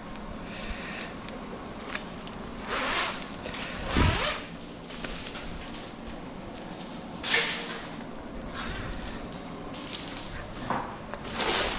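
Scattered knocks and scrapes from scrap metal being handled in a workshop, a few seconds apart.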